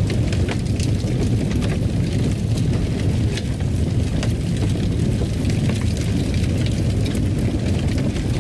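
Fireplace fire burning: a steady low rumble of flames with scattered, irregular crackles.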